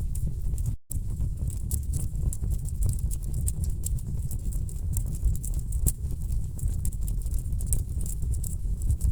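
Wood fire burning in a fireplace: a steady low rumble of flames with dense, irregular crackles and snaps of burning logs. The sound cuts out for an instant just under a second in.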